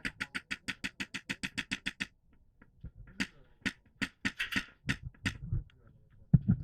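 Airsoft rifle firing a full-auto burst of about ten shots a second for about two seconds, followed by scattered single shots or clicks.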